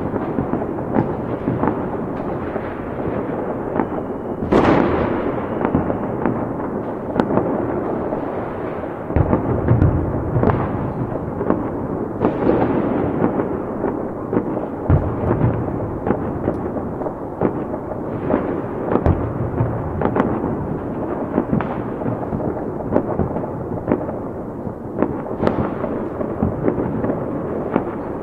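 Fireworks going off continuously: a dense stream of overlapping bangs and crackles, with a louder blast about four and a half seconds in.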